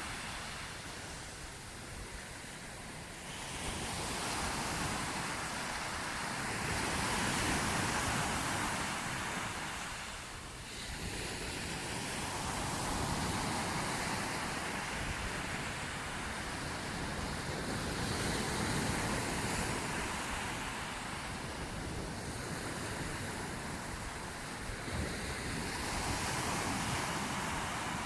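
Sea waves breaking and washing on a shore, the surf swelling and falling back every few seconds, with some wind on the microphone.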